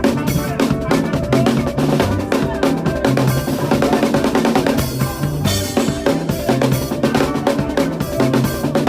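Makossa praise music with a drum kit played along: snare, kick drum and cymbals over a bass line.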